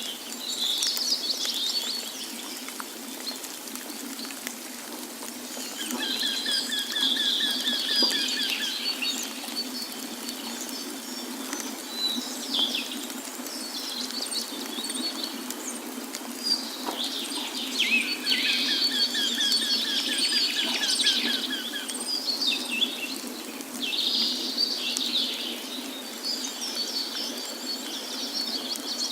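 Several birds singing and chirping, with fast trilled phrases that come in bouts and fade, over a steady rush of water.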